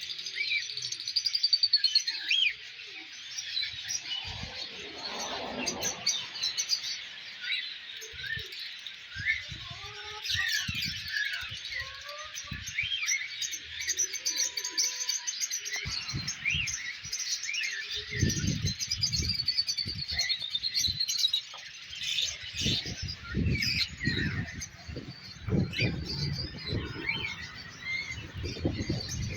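Many small birds chirping and twittering together, a dense overlapping chorus of short high calls. In the second half, low rustling thumps come in under the chirping.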